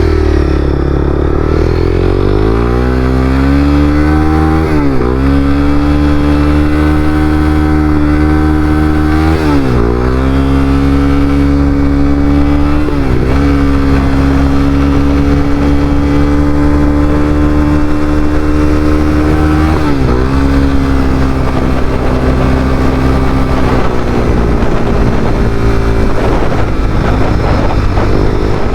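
Honda CBR300R's single-cylinder engine pulling through the gears under way: the revs climb from the start, then drop briefly and pick up again at four gear changes, with steady running between them. Near the end the engine settles at lower revs.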